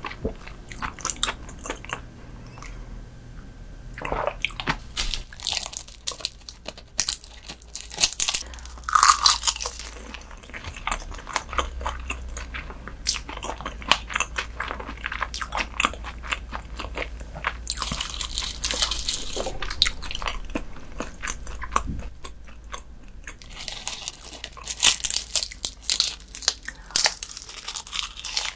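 Close-miked chewing and biting of raw herring, a firm-textured fish: a dense, irregular run of small mouth clicks, with louder clusters of bites now and then.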